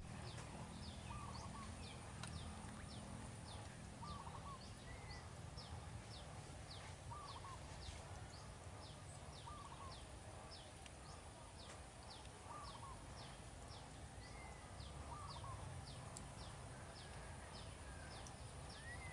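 Birds calling over a faint outdoor background: short, high, falling notes repeat about twice a second, and a lower call comes about every three seconds.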